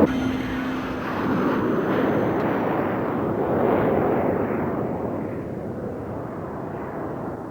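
North American Sabreliner jet flying past, its engine noise swelling a couple of seconds in and then fading as the higher hiss drops away.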